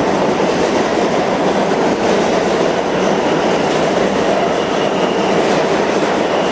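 New York City subway train running on the track: a loud, steady rumble of wheels and cars.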